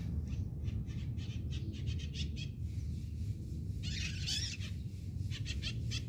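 A bird calling: a quick run of short repeated notes, a harsher burst about four seconds in, then a few more short notes near the end, over a steady low rumble.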